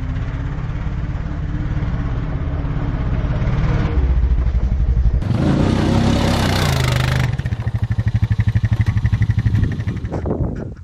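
A vehicle engine revving while spinning donuts, with a stretch of loud rushing noise about halfway through and a fast pulsing engine beat near the end.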